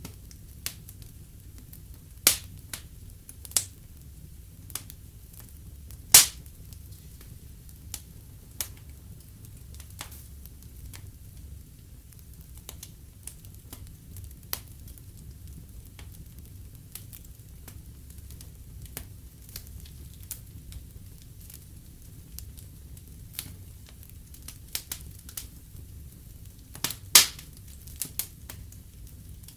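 Wood fire in a fireplace crackling, with irregular sharp pops over a low steady rumble. The loudest pops come about two, six and twenty-seven seconds in.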